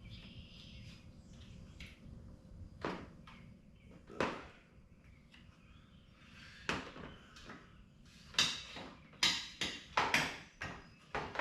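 Knocks, clicks and rattles of UTV door panel parts and hardware being handled during disassembly. A few single knocks come first, then a quicker run of knocks and rattles in the last three seconds.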